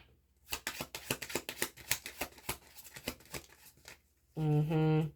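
Tarot cards being shuffled: a rapid run of clicks lasting about three and a half seconds. A short stretch of voice follows near the end.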